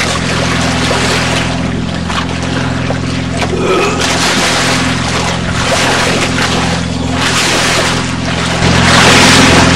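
Boat motor running at a steady speed, with wind and water rushing over it; the rush grows louder about nine seconds in.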